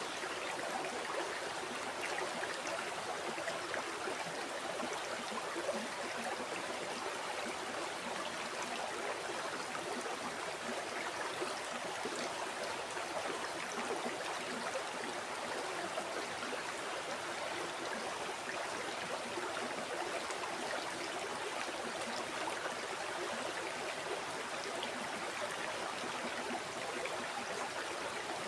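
River water flowing over stones, a steady rushing with fine splashing and gurgling detail.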